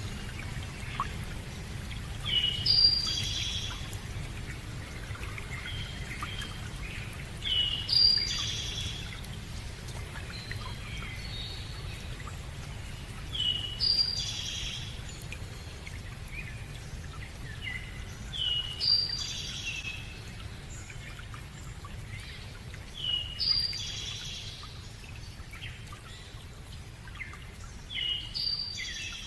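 A songbird sings the same short phrase of high chirping notes six times, about every five seconds, over a steady low rushing background.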